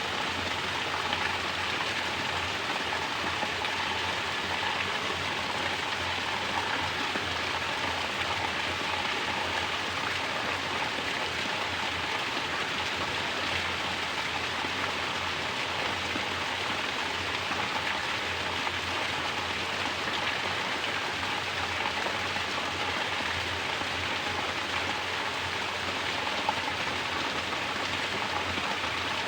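Mountain water falling as a natural shower, splashing steadily and evenly.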